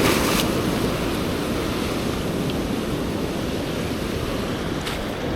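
Ocean swell breaking and washing over a rock ledge, a steady rush of surf.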